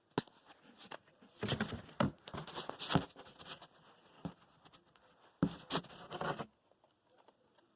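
Remote control toy construction tractor rattling and scraping in two spells of irregular clatter, the first about a second and a half in, the second more briefly near the middle, then it goes quiet.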